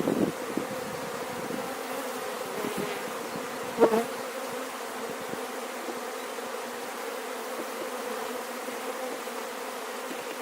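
Honeybees buzzing steadily in numbers around an open hive whose colony has just been shaken and brushed off the frames, with one brief louder buzz about four seconds in.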